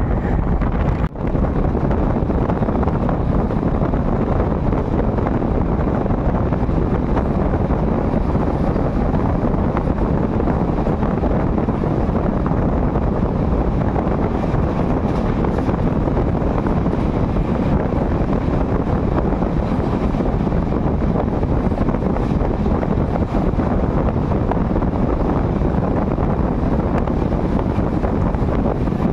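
Steady rumble and wind rush of a moving express passenger train, with wind buffeting the microphone.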